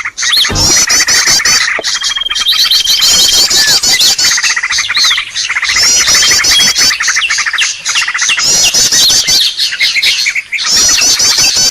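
Small songbirds calling busily in a loud, unbroken chorus of rapid high chirps and trills, with several calls overlapping. It is a bird-lure recording ('suara pikat') of the kind played to draw wild birds in.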